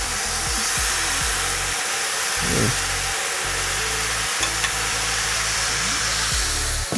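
Stir-fry of vegetables and soy granules sizzling steadily in a hot pan as a sauce is poured and spooned over it, over a low steady hum.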